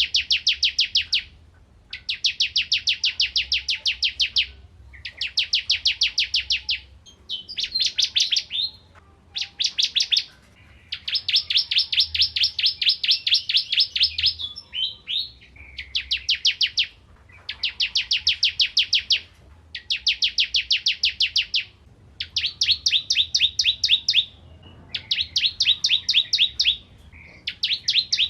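Ciblek kristal, a prinia, singing: bout after bout of very rapid, high, repeated notes, each bout lasting a second or two, with short pauses between.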